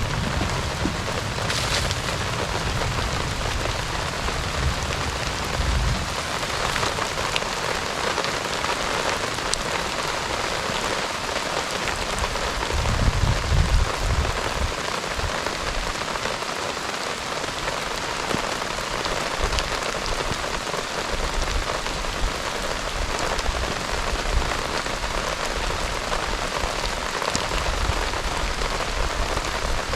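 Heavy rain falling in a steady hiss, with low rumbles now and then, strongest about 13 seconds in.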